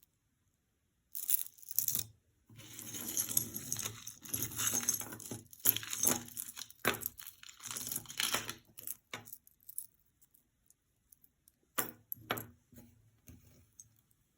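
Jewelry being handled: crinkling and rustling with beads and metal pieces clinking together, and a couple of sharp clicks about twelve seconds in.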